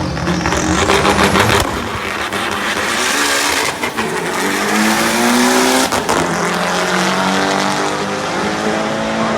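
Race car engine accelerating hard, its pitch climbing, dropping at a gear change about six seconds in, then climbing again. A hiss of tire or exhaust noise runs under it in the first half.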